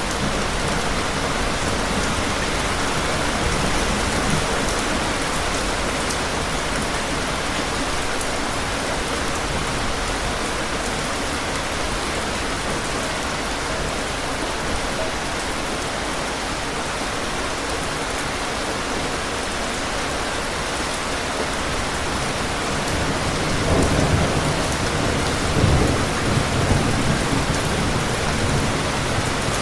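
Steady heavy rain, with thunder rumbling low a couple of times near the end.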